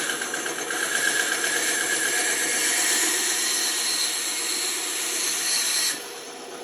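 Electric saw cutting through wood with a steady hiss, until the cut ends about six seconds in and the saw runs on more quietly with no load.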